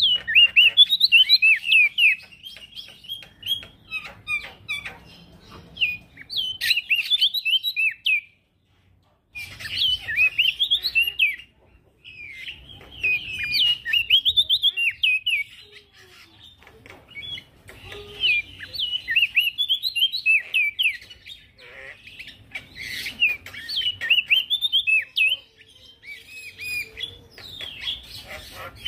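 Male prenjak daun singing: bursts of rapid, high twittering and chirping notes lasting a few seconds each, with brief breaks between them. The song cuts out completely for about a second partway through.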